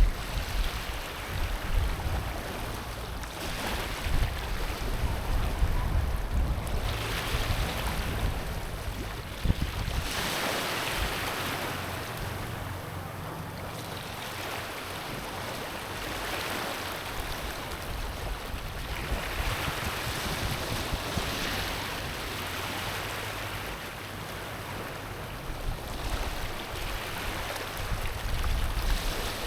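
Small ocean waves washing onto a rocky, pebbly shore. Each wash swells and fades about every three seconds. Wind rumbles on the microphone during roughly the first ten seconds and again near the end.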